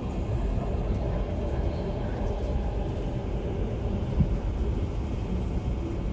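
Steady low rumble inside an MTR Tuen Ma Line IKK-train car, with a single sharp knock about four seconds in.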